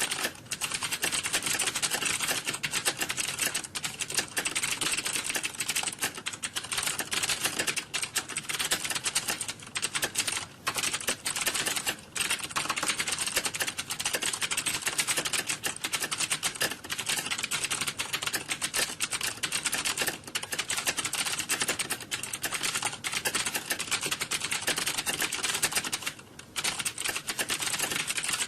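Computer keyboard typing: rapid, dense key clicks with no let-up, broken only by a few short pauses, the longest near the end.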